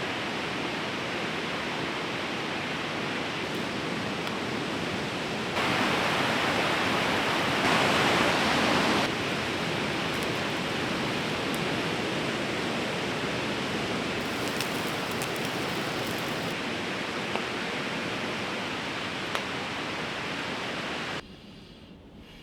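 A fast-flowing river rushing steadily. It is louder for a few seconds around six to nine seconds in and drops away sharply near the end.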